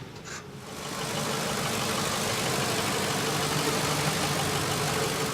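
Ford 5.4-litre three-valve Triton V8 petrol engine idling steadily, growing louder about a second in.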